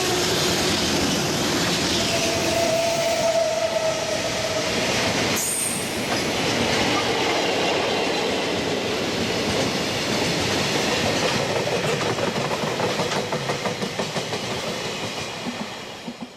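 Freight train of tank wagons and container flatcars rolling past, the wheels clacking rhythmically over the rail joints, with a brief steady squeal about two seconds in. The sound fades away near the end as the last cars go by.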